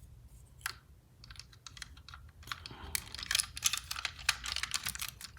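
Hard plastic parts of a transforming toy robot clicking and clattering as it is handled: a few scattered clicks at first, then faster, denser clicking in the second half.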